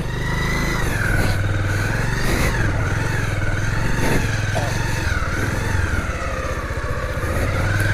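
Motorcycle engine running while the bike is ridden slowly over a rough, muddy road, its note rising and falling gently with the throttle.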